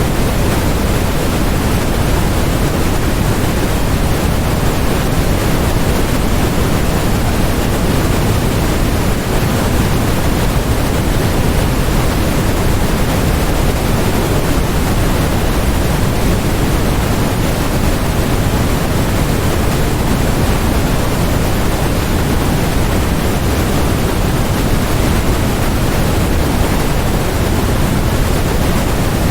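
Steady generated white noise: a constant, even hiss that does not change, heavier in the low end so that it leans toward pink noise.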